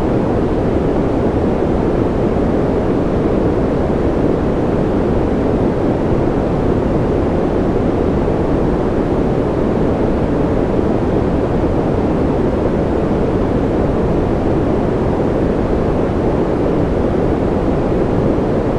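Steady sleep-aid white noise: a loud, even rushing hiss weighted toward the low end, with no change in level or pitch.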